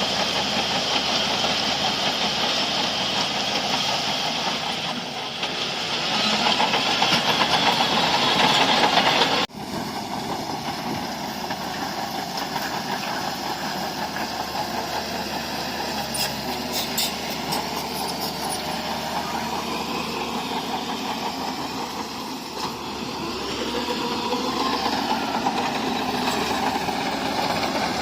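Heavy diesel engine of a bulldozer running steadily, working harder and louder for a few seconds before breaking off abruptly at about nine and a half seconds. It then resumes, steady again, and builds once more near the end.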